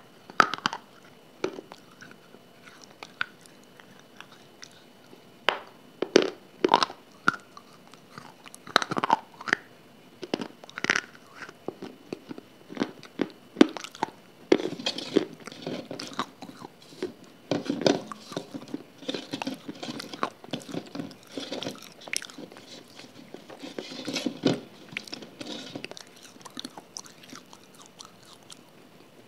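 Close-miked biting, crunching and chewing of a crumbly grey block. Sharp separate crunches come in the first half, then denser, steadier chewing through most of the second half.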